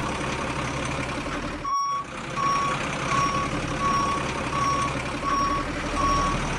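Truck reversing alarm beeping evenly, about three beeps every two seconds, over a running truck engine. The beeps start about two seconds in, right after a brief cut in the sound.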